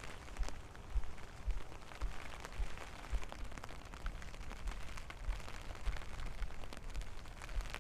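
Steady rain falling and pattering, with many small drop ticks, and a low thud about twice a second from the footsteps of someone walking through it.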